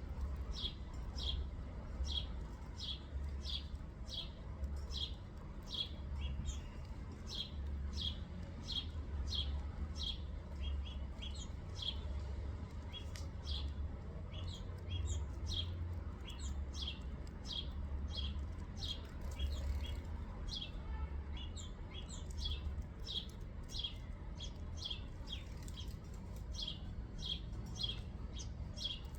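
Small songbird chirping steadily, short high chirps about every half second with a few brief pauses, over a low steady rumble.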